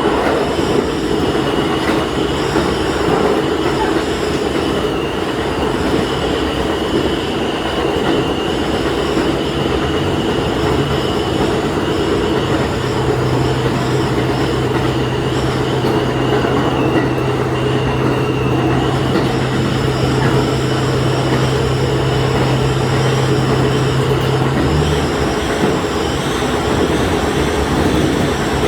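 Diesel railcar running along the line, heard from inside at the front: steady running and rail noise. A low engine drone comes in about 12 seconds in and cuts off sharply near 25 seconds.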